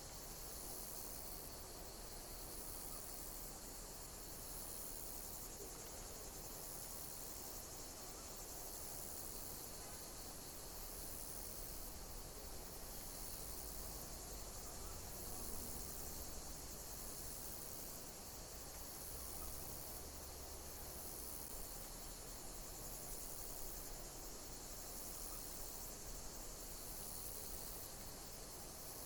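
Insects chirping in a steady high-pitched chorus, with a faint pulse recurring every couple of seconds, over a low hiss.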